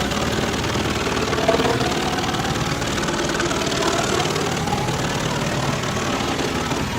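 Large wood chipper's engine running steadily under load as it chips logs, with a fast even pulse and wavering grinding tones over it.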